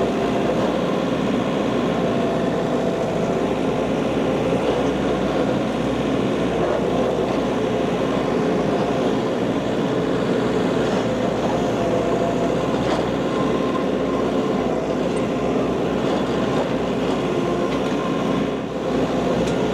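John Deere 50ZTS mini excavator's diesel engine running steadily as the machine works, with a short dip in level near the end.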